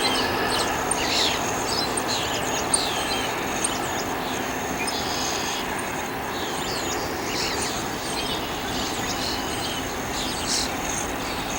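Small birds chirping over and over, short high calls, many sweeping quickly down in pitch, over a steady distant rumble.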